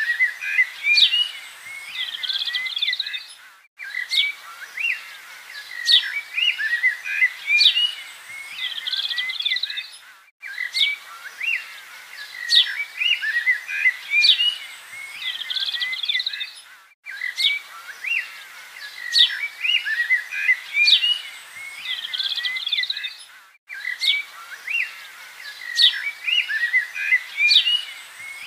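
Budgerigars chattering and chirping, a busy mix of short whistles and warbles. It is a short recording looped about every six and a half seconds, with a brief break at each repeat.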